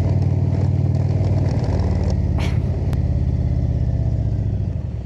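Indian motorcycle's V-twin engine running steadily at road speed, with brief small dips in pitch about one and a half and two and a half seconds in.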